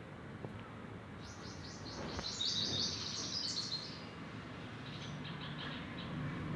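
Small birds chirping: a fast, high run of chirps starting about a second in and lasting some three seconds, then fainter chirps near the end.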